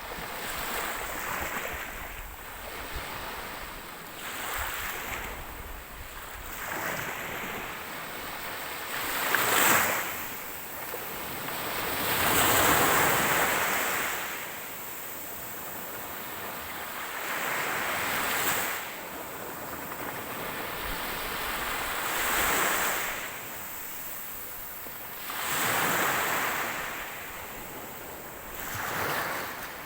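Ocean waves breaking on a shore: rushes of surf that swell and fade every few seconds, the loudest about ten and thirteen seconds in.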